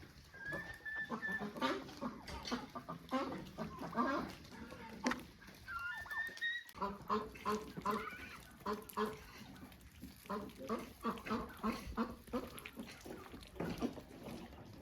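A flock of domestic fowl calling: rapid, repeated short honking calls, several a second, with a few thin high chirps in between.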